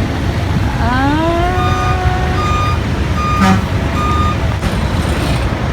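Low, steady rumble of vehicles at a port, with three short high beeps in the middle like a reversing alarm. About a second in, a long pitched tone rises and then holds.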